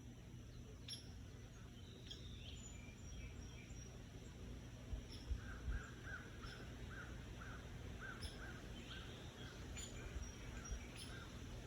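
Birds calling, faint: short high chirps scattered throughout, and from about five seconds in a run of a dozen or so short, evenly spaced call notes, about three a second, lasting some five seconds.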